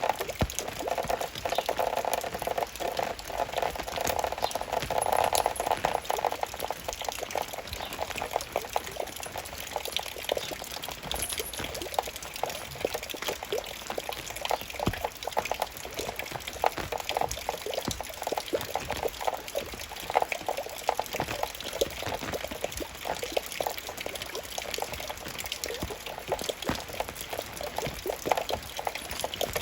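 Raindrops falling and splashing in dense, uneven ticks, with a fuller pouring water sound over the first six seconds or so.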